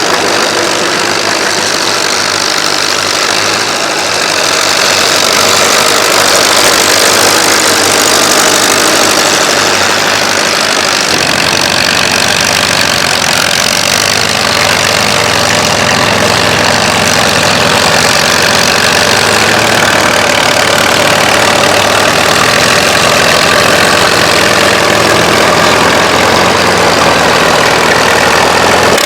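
Antique farm tractor engines running steadily, their low note changing about eleven seconds in.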